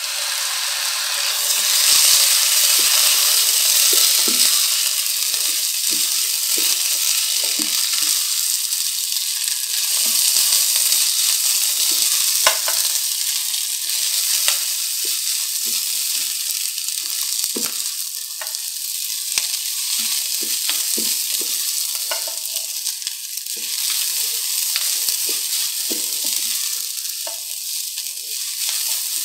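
Rice and lentils sizzling as they fry in a pot, stirred with a spatula that scrapes and knocks now and then across the pan, over a steady high hiss.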